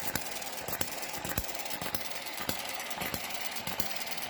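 Eachine ET7 model open-crank hit-and-miss petrol engine running, firing in single sharp beats at uneven gaps of about half a second to a second and coasting with a light mechanical clatter between. The uneven firing is its hit-and-miss governing, exaggerated by weaker governor springs on the centrifugal weights.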